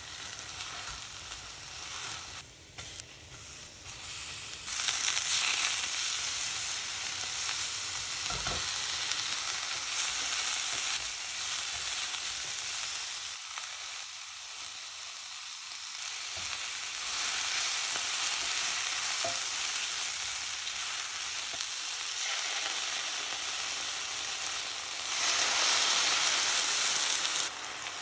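Cabbage, meat and kimchi sizzling in a hot nonstick frying pan as they are stir-fried, with a silicone spatula stirring and scraping. The sizzle swells in louder spells, loudest for a couple of seconds near the end, when water goes into the hot pan and steam rises.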